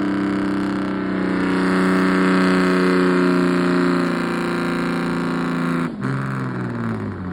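Pulling truck's engine held at full throttle, loud and steady, distorting the recording. About six seconds in it comes off the throttle and the pitch falls away.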